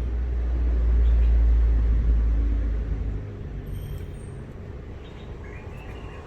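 A deep low rumble swells and then fades over the first three seconds, with a faint bird call near the end.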